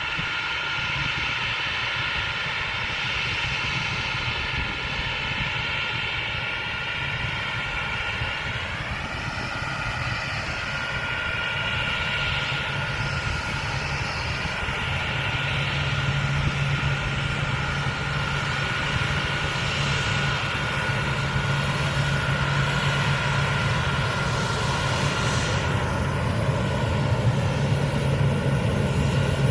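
Aircraft engines running with a steady high whine over a lower rumble. The whine's pitch rises about nine seconds in, and the low rumble grows louder in the second half.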